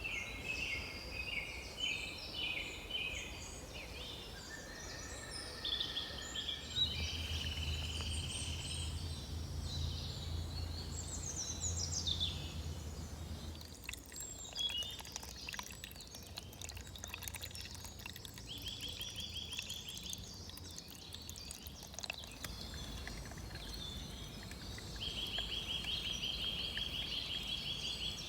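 Wild birds singing, several varied phrases overlapping, then a long rapid trill heard twice in the second half. A low hum runs underneath for several seconds in the middle.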